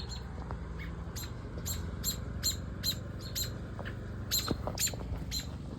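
Baby birds in a nest cheeping: short, very high peeps repeated about two to three times a second.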